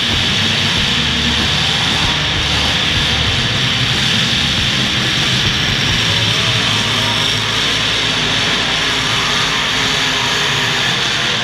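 Engines of several demolition derby cars running together in a steady, loud din with a low rumble.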